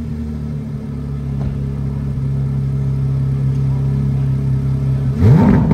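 2023 Corvette Z06's flat-plane-crank 5.5-litre LT6 V8 idling steadily through its center-mount quad-tip exhaust. Near the end it is revved once, the pitch climbing quickly to the loudest moment before dropping away.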